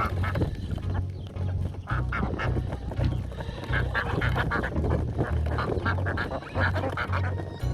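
Ducks quacking: many short calls that overlap and repeat.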